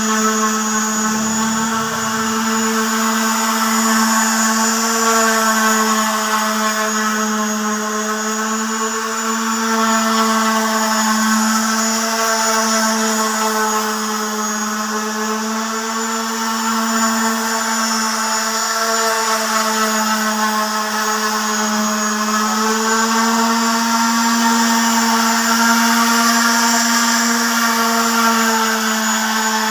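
Electric power sander running steadily on a synthetic solid-surface tabletop: a constant motor hum with a strong steady tone and a hiss of abrasion over it.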